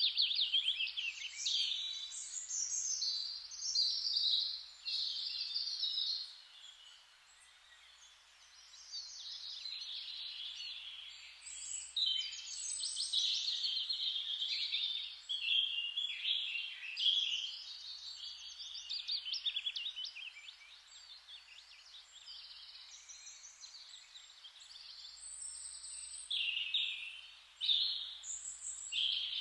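Songbirds singing: rapid trilled and warbled phrases, one after another with a short lull about a quarter of the way through.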